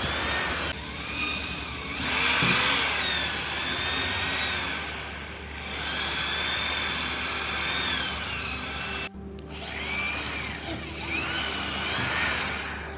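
A handheld power tool working the steel of a sword blade, its whine rising and falling as the load changes. It cuts out sharply about nine seconds in and picks up again.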